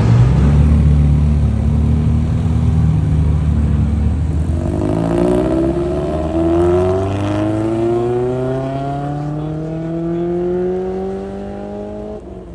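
Car engine running low and steady, then from about four seconds in accelerating hard, its pitch climbing steadily for several seconds and growing fainter as the car pulls away.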